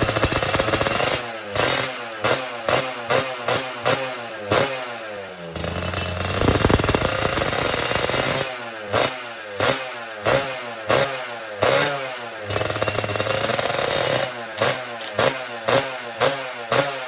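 Suzuki Satria two-stroke motorcycle engine, ported for racing, being revved: runs of quick throttle blips about two a second alternate with stretches of held revs.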